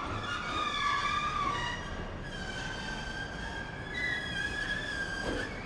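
A train moving slowly through a freight yard on a shunting move, its wheels squealing in several wavering high tones over a low rumble.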